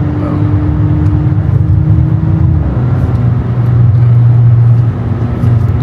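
Car engine and road noise while driving, the engine note steady, then dropping a little under three seconds in and settling on a new steady note.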